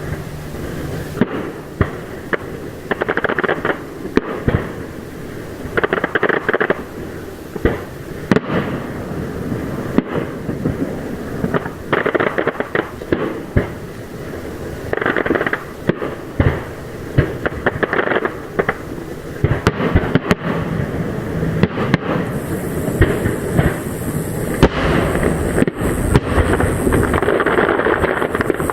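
Aerial fireworks display: a run of sharp shell bursts mixed with clusters of crackling, growing denser over the last several seconds.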